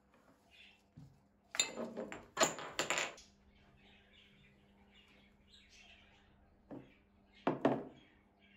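Knocks and clatter of hard objects being handled, in two bursts: a longer run of clicks about two to three seconds in and a short one near the end, over a faint steady hum.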